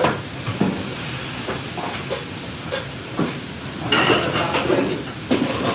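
Food sizzling on a hot pan, with a steady hiss and scattered clinks and knocks of kitchen utensils, the busiest clatter about four seconds in.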